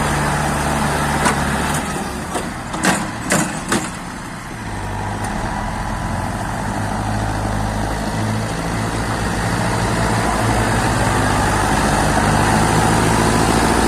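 Mahindra tractor's diesel engine running steadily. A few sharp knocks come about three seconds in, while the engine sound briefly drops. The engine then grows steadily louder.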